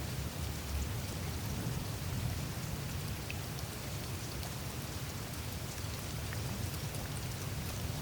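Melting glacier ice surface: a steady wash of meltwater trickling and dripping through the ice, with many tiny scattered clicks and ticks over a low, steady rumble.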